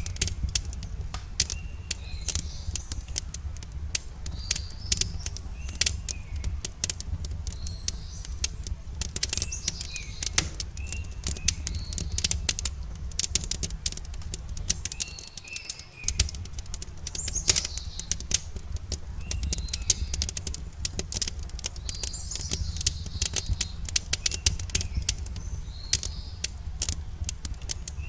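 Wood campfire crackling with dense, irregular sharp pops over a steady low rumble, while small birds chirp in short calls every few seconds. The low rumble drops out briefly about halfway through.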